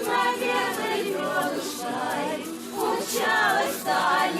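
Women's voices singing a Russian Cossack folk song together in harmony, with little or no instrumental backing.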